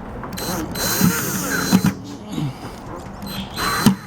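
Metal scraping, rattling and sharp clicks from handling a screw and tool while fastening a replacement turntable motor into a microwave oven, in two spells: a longer one early and a short one near the end.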